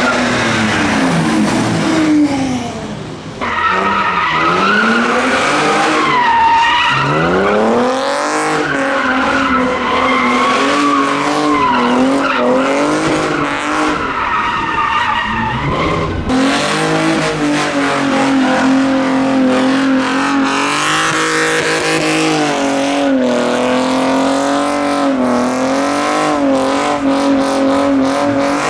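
Car engine revving hard while its tyres squeal and skid. In the first half the revs rise and fall repeatedly; from about halfway through the engine is held at high, nearly steady revs with small wavers, the tyres still squealing.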